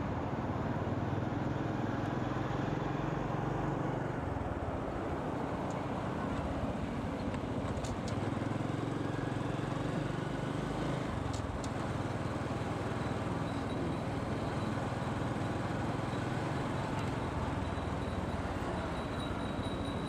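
Motorcycle engine running under way, with wind and road noise; the engine note shifts a couple of times, and there are a few brief clicks.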